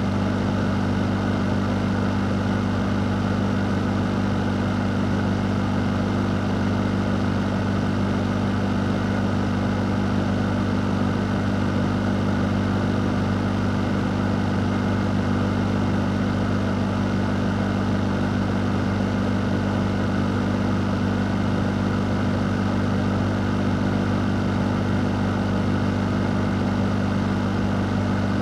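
A fan running steadily: an even rush of moving air over a low, constant motor hum.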